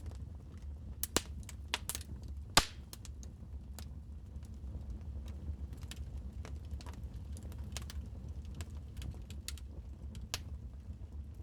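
Wood fire crackling: irregular sharp pops and snaps, the loudest about two and a half seconds in, over a low steady rumble.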